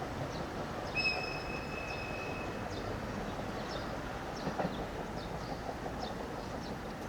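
Echigo Tokimeki Railway ET122 diesel railcar running on the line with a steady rumble. About a second in, a high steady squeal lasts about a second and a half.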